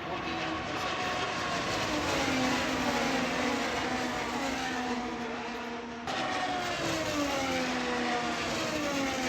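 Race car engines running at speed, their pitch falling again and again as cars go by, with an abrupt cut about six seconds in.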